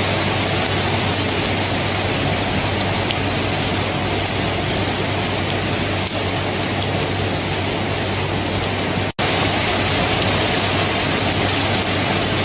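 Steady, even rain. It cuts out for an instant about nine seconds in, then resumes.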